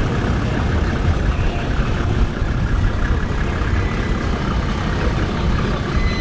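Classic car engines idling and running slowly in cruising traffic: a steady low rumble.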